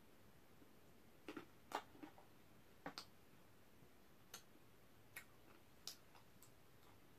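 Quiet chewing: soft, irregular clicks of the mouth at a scattered pace, against near silence.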